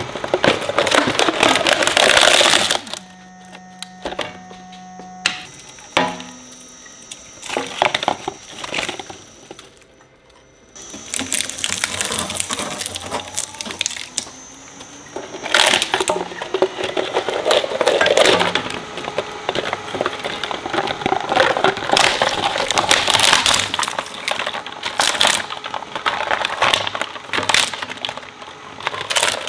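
Industrial shredder crunching and cracking hard plastic as its blades chew items into pieces, in dense runs of snapping broken by a short lull. About three seconds in, a few seconds of steady tones interrupt the crunching.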